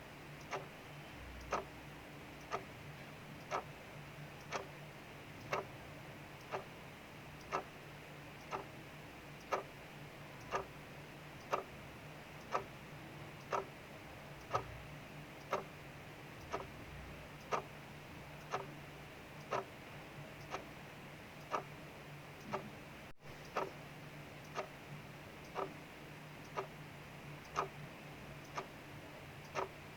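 Clock ticking steadily, one sharp tick about every second, over a faint steady hum and hiss.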